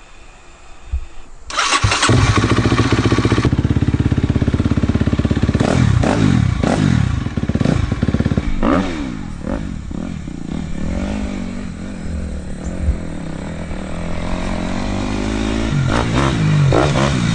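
Dirt bike engine coming in suddenly about two seconds in, then revved up and down in several rising and falling sweeps before settling to a steadier run and building again near the end.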